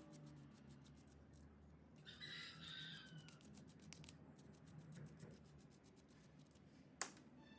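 A chicken calling faintly once, about two seconds in, the call falling in pitch at its end, over near silence. A single sharp click comes near the end.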